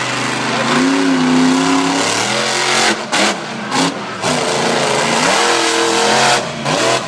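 Monster truck engine revving hard, rising and falling in pitch, with the throttle chopped briefly about three seconds in, again at four seconds, and once more near the end.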